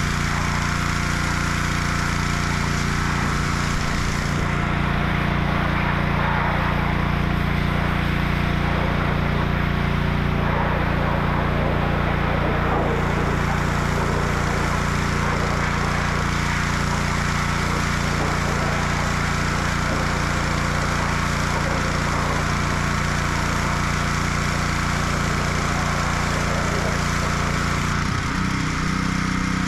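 A machine running steadily with a constant mechanical hum at an even level. The hum shifts in its low pitches near the end.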